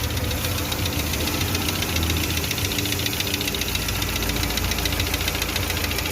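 Car engine running steadily with a fast, light ticking, which the mechanic puts down to the hydraulic lifters. The worn air-conditioning compressor is off the belt, so its loud noise is absent.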